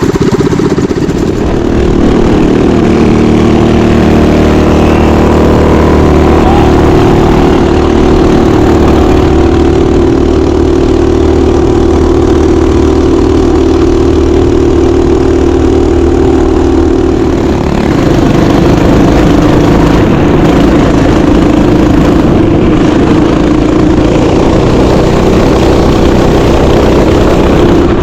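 Mini bike engine running steadily under way, loud and close, its note shifting about eighteen seconds in. The engine is running again after overheating.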